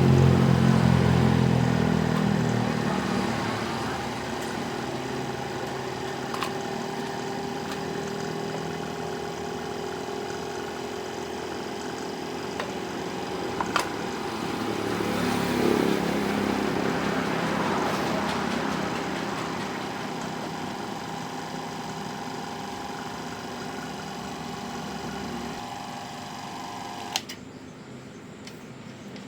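A steady mechanical hum from a running motor that stops suddenly with a click near the end, after a louder engine-like sound fades away in the first few seconds.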